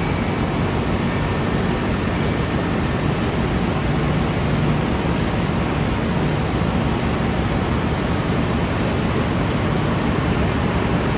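Steady, loud machinery noise of a cargo ship's engine room, running evenly with no distinct beats or changes.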